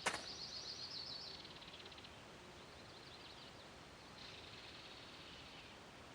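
A small bird singing faintly in high chirps, breaking into a fast trill about a second in and chirping again later, over faint background noise; a sharp click comes at the very start.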